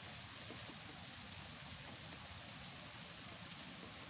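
Steady rain falling on a grassy garden and trees: an even hiss with occasional faint ticks of single drops.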